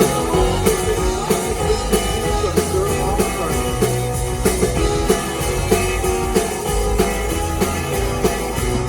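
Live rock band playing a British rock song: electric guitar and drum kit with a steady beat.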